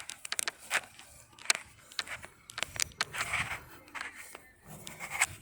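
Irregular clicks, crackles and scrapes of close handling as hands feel over the heat pump's casing, with no steady fan or compressor hum.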